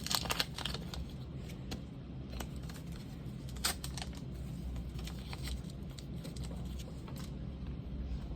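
Scattered small clicks and light taps of small nail-gun trigger valve parts and O-rings being handled and fitted by hand, with a steady low hum underneath.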